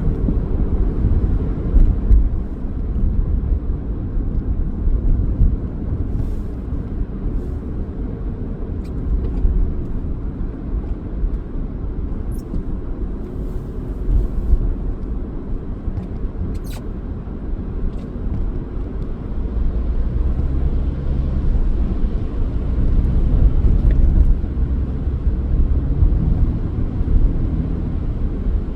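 Steady low rumble of road and engine noise from a car driving along city streets, with a few faint clicks.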